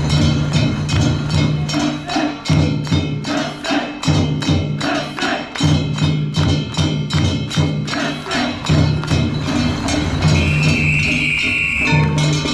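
Kunchi festival music (shagiri): struck percussion in a fast, even beat of about four strokes a second over low drumming, with a high held note about ten seconds in.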